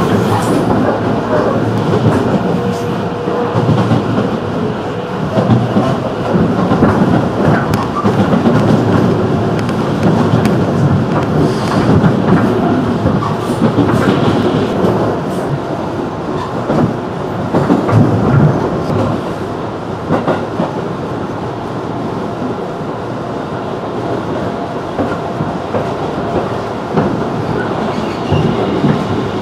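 Running noise of a JR 211 series electric train heard from inside the carriage: a steady rumble with wheel clatter over the rails. It eases slightly over the last third.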